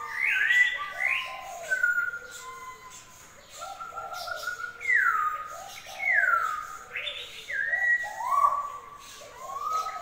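Aviary songbirds whistling: a run of clear whistled notes, overlapping, several sliding down in pitch, coming about once a second with the loudest two falling whistles about halfway through.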